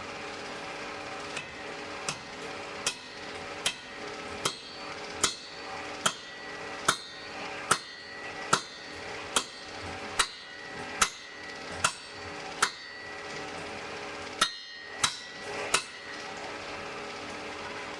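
Blacksmith's hammer striking the anvil in a steady rhythm, a little over one blow a second, each blow ringing out with a bright metallic tone. There is a short pause about two-thirds of the way through, then three quicker blows. A steady hiss of the forge fire runs underneath.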